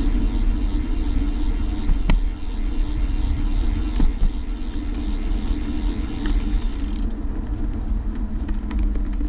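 Steady wind and road rumble picked up by a handlebar-mounted GoPro on a moving bicycle, with a few sharp clicks and rattles from bumps. The upper hiss drops away abruptly about seven seconds in.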